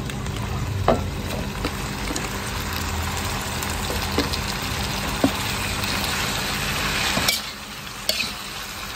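Chunks of boiled beef tripe sizzling in spice paste in a wok, with a metal spatula stirring and clinking against the pan a few times. The sizzle drops sharply a little after seven seconds in.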